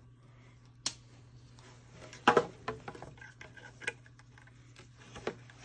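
A few scattered sharp metallic clicks and taps of pliers and wire working on a Toyota Prius exhaust heat shield, the loudest a little over two seconds in, over a faint steady low hum.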